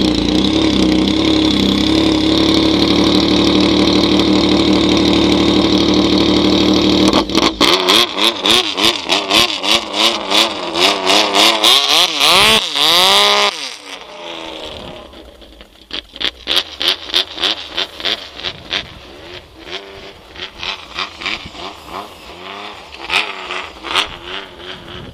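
Supercharged Yamaha Nytro snowmobile's four-stroke triple running hard at steady revs. About seven seconds in it starts revving up and down quickly, roughly twice a second, for several seconds. It then drops off and carries on quieter in uneven bursts of throttle.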